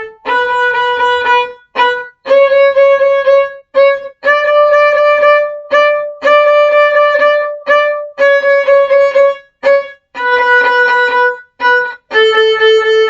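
Violin playing a simple beginner tune on the A string in short, repeated bow strokes. The notes step up from B through C sharp to D and then back down to A.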